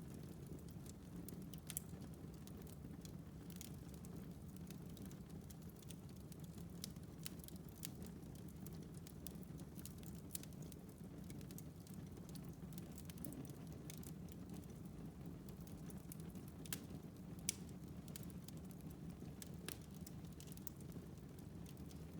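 Wood fire burning in a fireplace: a faint steady rumble of the flames with scattered sharp crackles and pops from the burning logs, two of them louder about three-quarters of the way through.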